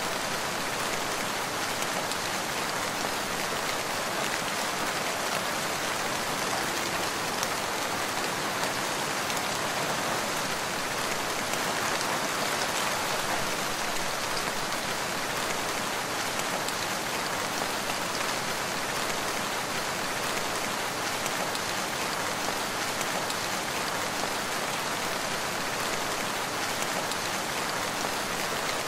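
Steady rain falling, an even hiss of many drops with no thunder or change in strength.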